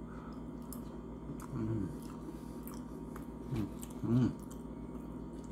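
A man chewing a forkful of potato salad, with small mouth clicks and a few short hums from his throat in between.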